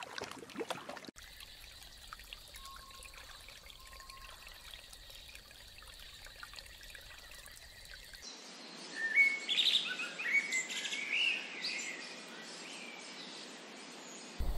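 Faint outdoor ambience with a light trickle of water, then from about eight seconds in a run of bird chirps and calls lasting a few seconds.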